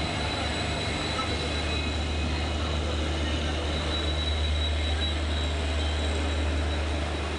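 Passenger train rolling slowly past: its locomotive and coaches make a steady low rumble, with a thin high whine above it.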